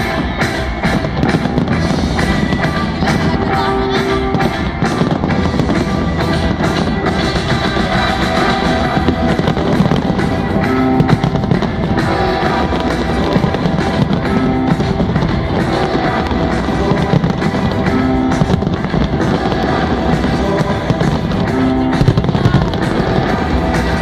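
Fireworks display: loud music with firework bangs and crackles over it. The crackling is thickest in the first few seconds.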